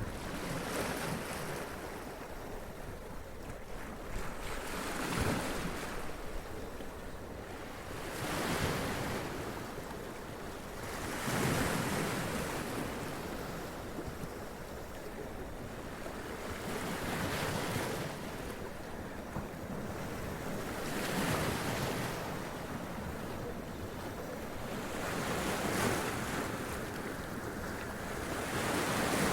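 Sea waves breaking and washing up over rocks, a steady surf wash with a surge every three to five seconds.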